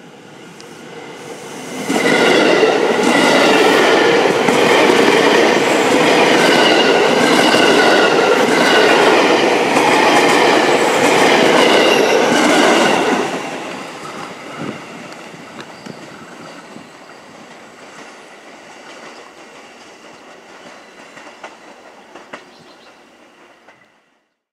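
JR 205 series electric commuter train passing close by: the sound swells over the first two seconds, stays loud for about eleven seconds with wheels clacking over the rails and a wavering high squeal, then fades away with a few scattered clicks before cutting off near the end.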